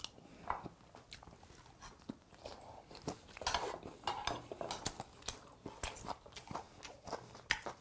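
Close-miked chewing of steamed skate, with soft, irregular crunches as its cartilage is bitten through and a few light clicks of chopsticks on a plate.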